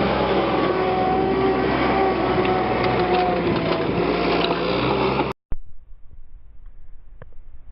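Power wire brush scouring a steel tractor rim: a steady motor hum with a scratching rasp. It cuts off abruptly about five seconds in, and a much quieter stretch with a few sparse clicks follows.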